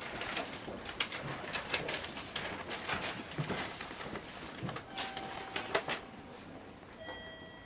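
Ambience inside a 305 series train standing at a station platform with its doors open: scattered small clicks and knocks over a low background noise. A faint, steady high beep starts near the end.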